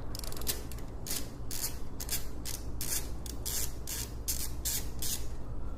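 Socket ratchet clicking in quick runs of sharp clicks, a few per second, as the exhaust header flange nuts are worked loose.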